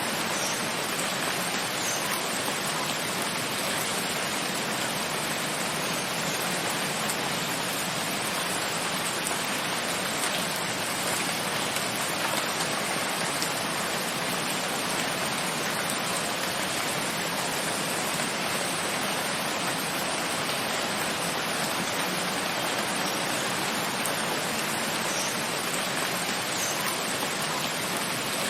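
Steady rain falling, an even hiss of dense rainfall with a few individual drops standing out faintly.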